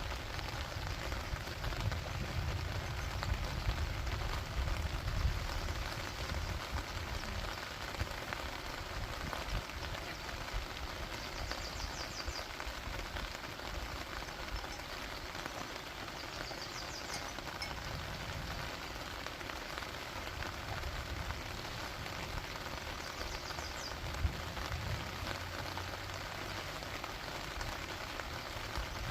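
Steady rain falling, with a few brief, faint high chirps.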